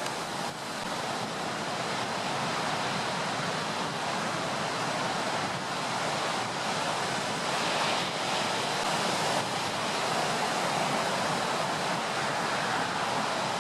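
Stormy sea: waves rushing and breaking, with wind, in a steady roar of noise that swells and eases a little.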